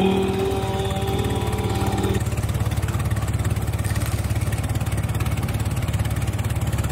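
A ride-on lawn tractor's small engine running steadily with a fast, even pulse. A held tone sounds over it for the first two seconds.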